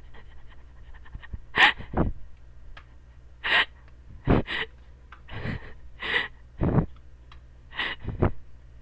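A person breathing sharply close to the microphone: about ten short breathy puffs or gasps, some in quick pairs, over a low steady hum.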